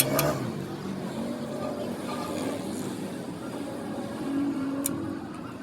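A vehicle engine running, with a sharp knock just after the start and another about five seconds in.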